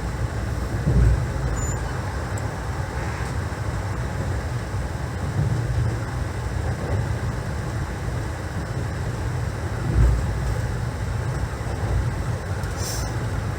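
Passenger train running: a steady low rumble of the coach in motion, with dull thumps about a second in and again about ten seconds in.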